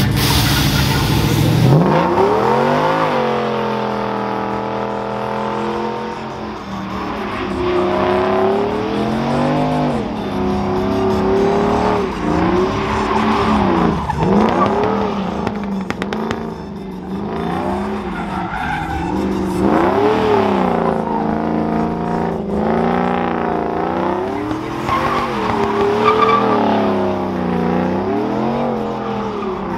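A truck engine revving hard during a burnout, its pitch climbing about two seconds in and then rising and falling over and over, with the tyres squealing as they spin.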